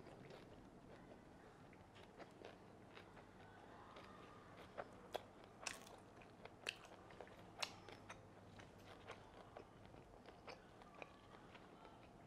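Faint, close-miked chewing of fried fish balls filled with salmon roe, with scattered sharp wet clicks and pops from the mouth.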